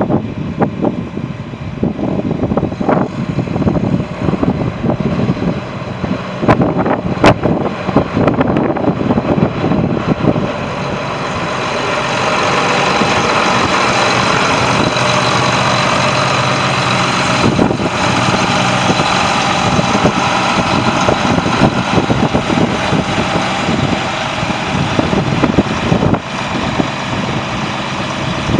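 John Deere 8640 4x4 tractor's diesel engine running, with wind gusting on the microphone. About eleven seconds in the engine sound becomes louder and steadier.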